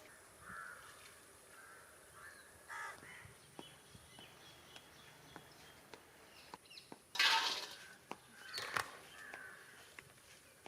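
Crows cawing several times in short harsh calls, with the loudest burst about seven seconds in, over faint scattered clicks.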